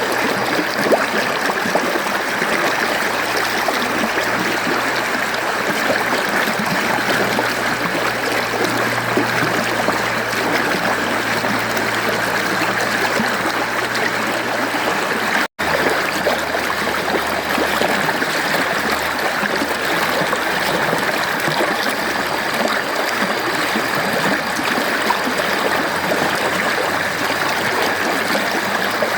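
Mountain stream water flowing steadily, an even rush of water. About halfway through, the sound cuts out for an instant.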